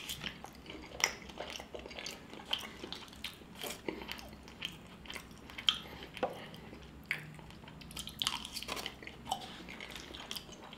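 Close-up mouth sounds of a person chewing a forkful of mac and cheese topped with a Cheez-It crust: irregular wet smacks and small clicks, a few each second.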